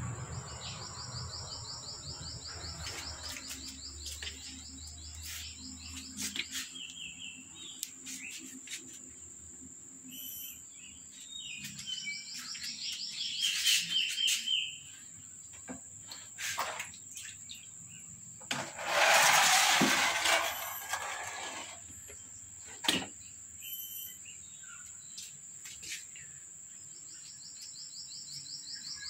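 Birds chirping outdoors, with fast trilling calls three times over and a steady high-pitched insect whine behind them. About two-thirds through comes a loud noisy rush lasting about two seconds.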